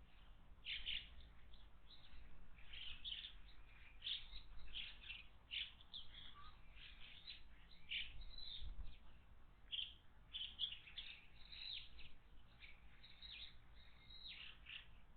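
Wild birds chirping and calling, many short calls in quick succession, fairly faint.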